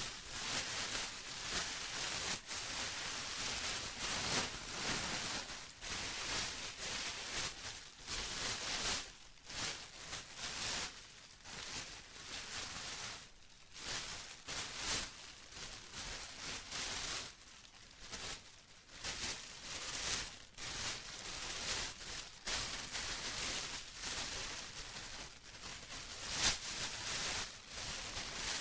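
Plastic being crinkled and rustled by hand in a continuous, uneven stream of crisp crackles, swelling and easing every second or so.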